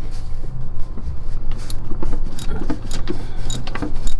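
Hand work on a car starter's wiring: a quick run of small clicks and light knocks as connectors are handled, over a steady low hum.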